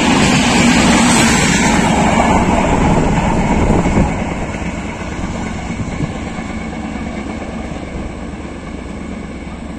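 Express passenger train's coaches rolling past on the rails, a steady loud rumble of wheels on track. The noise drops off about four seconds in and keeps fading as the train draws away.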